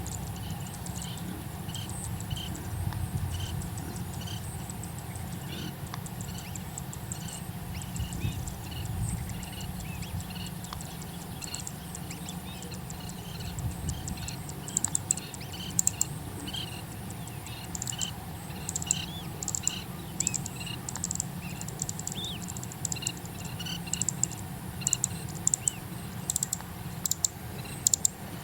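Birds chirping in short high notes, repeated about once a second, over a low steady rumble. From about halfway in, sharp clicks join in and become the loudest sounds.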